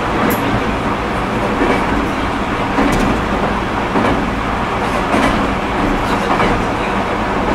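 Interior running noise of a JR East E127-100 series electric train (the GTO-thyristor VVVF inverter era) travelling between stations: a steady, loud rumble of wheels on rail, with the air conditioning running and a few faint light clicks.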